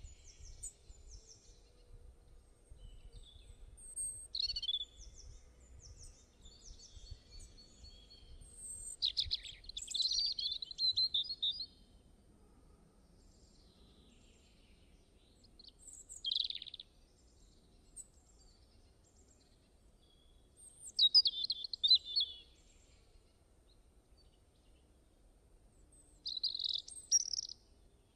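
Birds singing and calling in short bouts of high chirps and trills, the busiest stretches about a third of the way in and again later, over a faint low rumble.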